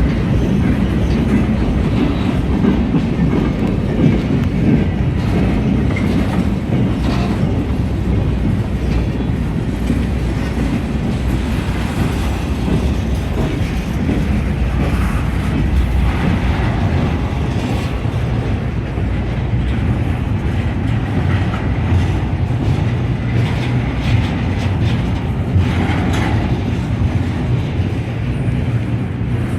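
Freight train cars rolling past: a steady rumble with the clickety-clack of steel wheels over rail joints.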